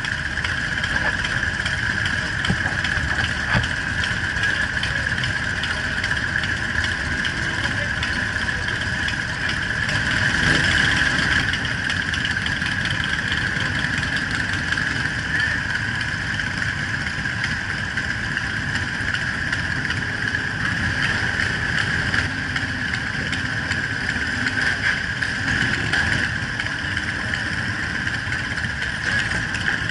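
Cruiser motorcycle engines idling and running at low speed as a group of bikes moves off slowly.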